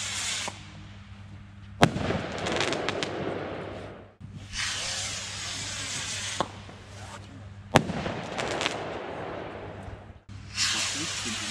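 Consumer fireworks going off: stretches of loud hissing alternate with two sharp bangs, each bang followed by crackling.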